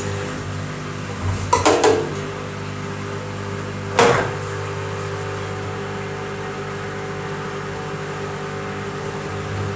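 Washing machine running its spin cycle with a steady motor hum. A quick cluster of knocks comes near two seconds in, and a single sharp knock about four seconds in.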